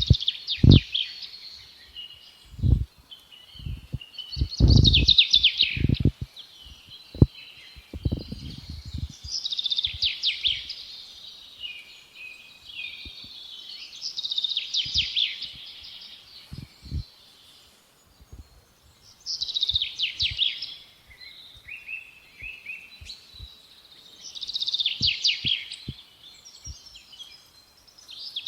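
A songbird singing the same fast trilled phrase over and over, about every five seconds, each phrase lasting about a second and a half. Low thumps come now and then in the first third.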